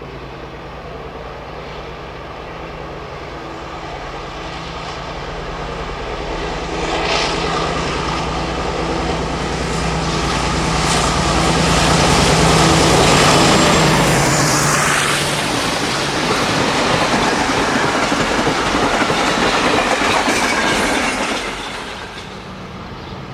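Diesel-hauled freight train passing: the locomotive's engine hum grows louder and passes about halfway through, then the wagons roll by with clickety-clack over the rail joints before the sound falls away near the end.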